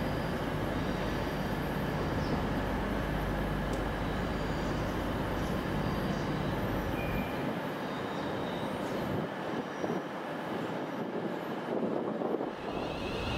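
A train moving through the station, with a steady low hum that falls away about seven seconds in while a broad rushing noise carries on.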